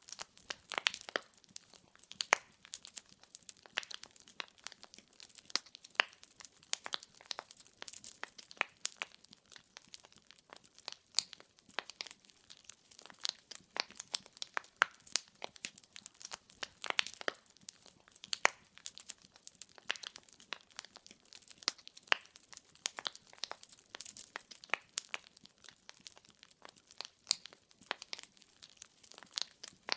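Wood fire crackling in a fireplace: a steady stream of irregular sharp pops and snaps from the burning firewood, over a faint hiss.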